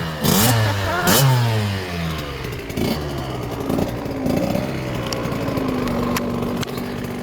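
Husqvarna TC65 two-stroke dirt bike engine revved in two quick blips, then running at a steadier drone that slowly drops in pitch as the bike rides off.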